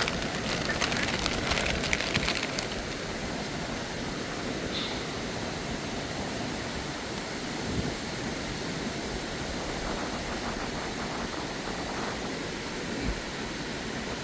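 Steady rushing of a mountain stream, with a burst of crackling splashes or clicks over the first two and a half seconds.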